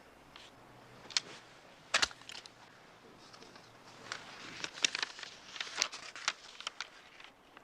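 Scattered small clicks, clinks and light rustles of objects being handled, with a sharper knock about two seconds in.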